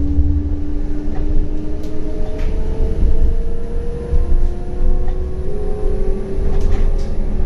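CAF Urbos 100 tram under way, its traction drive giving a slowly rising electric whine that steps down and climbs again as it gathers speed, over a steady low rumble of wheels on rail. A few sharp clicks come through now and then.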